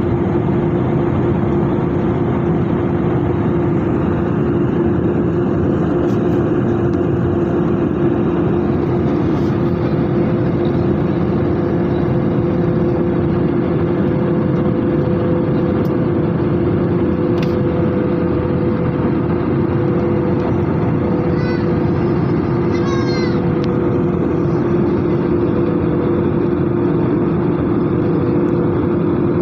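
Steady cabin noise of an Airbus A320 with its CFM56 engines running: a loud, even rush of engine and air noise with a constant low hum.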